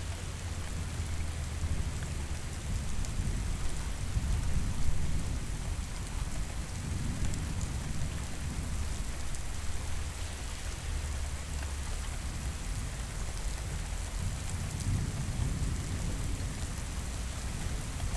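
Steady heavy rain with low rolling thunder that swells and fades a few times, loudest about five seconds in.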